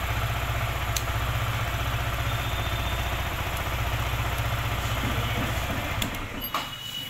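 Yamaha R15M's 155 cc single-cylinder engine idling steadily in neutral, still warming up, until it drops away about six seconds in.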